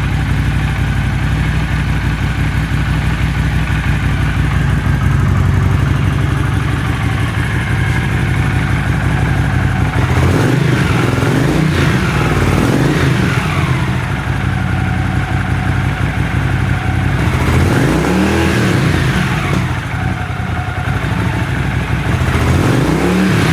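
Honda CX500's V-twin engine running warm: idling steadily without the choke on its freshly cleaned, bench-synced carburettors, then blipped up and back down a few times in the second half.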